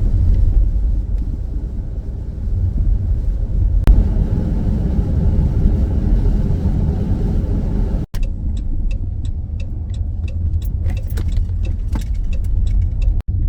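Steady low road and engine rumble inside a moving Dodge Grand Caravan minivan, with a run of light ticks over the last few seconds.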